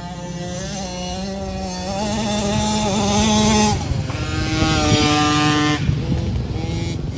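Small two-stroke engine of a Yamaha PW50 dirt bike under throttle, its pitch rising for almost four seconds, dropping sharply as the throttle eases, then climbing and easing again, growing louder.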